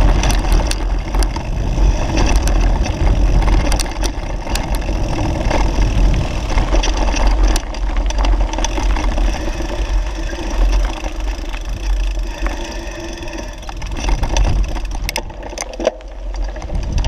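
Bicycle riding over a rough dirt trail, its frame and parts rattling with frequent sharp knocks over bumps, under a heavy rumble of wind on the microphone.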